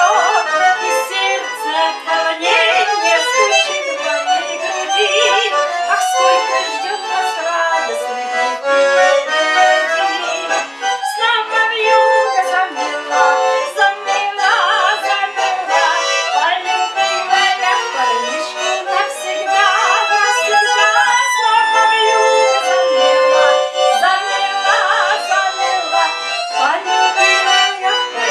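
Accordion playing a melody over chords, continuous and steady in level.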